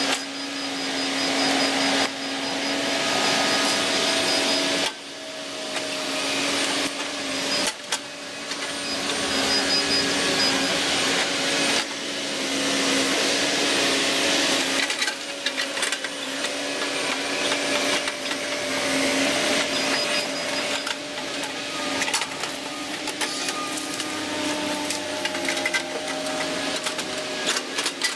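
Volvo ECR145EL excavator's diesel engine and hydraulics running under load: a steady hum with whines that drift up and down in pitch, the sound dropping and changing abruptly a few times.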